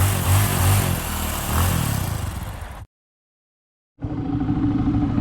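Motorcycle engine running and revving, cut off abruptly about three seconds in. After a second of silence, another steady engine sound begins.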